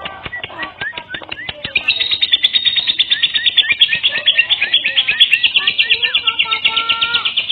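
Lovebird chattering: scattered shrill chirps and a few lower whistled glides, then from about two seconds in a long unbroken run of fast, evenly repeated high chirps. This is a lure recording, played so that caged lovebirds answer and sing.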